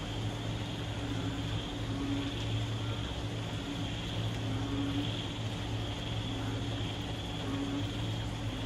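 Moderate rain falling steadily at night, with a continuous high drone of night creatures calling and a steady low hum underneath. Fainter calls come and go every second or two.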